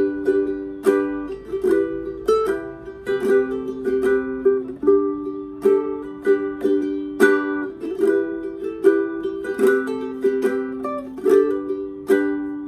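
Caramel CT102A tenor ukulele with a zebrawood body and Aquila strings in GCEA tuning, played solo fingerstyle. Plucked chords and single notes strike about once a second and ring on between strikes.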